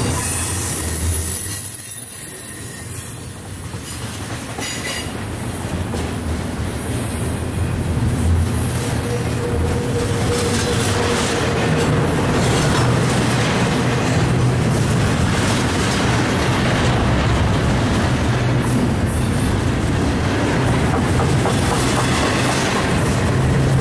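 CSX intermodal freight train passing close by: steady rumble and rattle of the cars' wheels over the rails, with clicking at the rail joints and a thin high wheel squeal. The sound dips briefly a couple of seconds in, then builds and holds loud.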